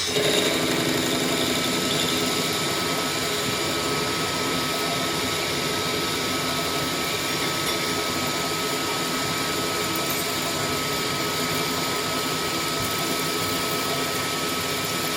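A power tool running steadily with a constant high whine.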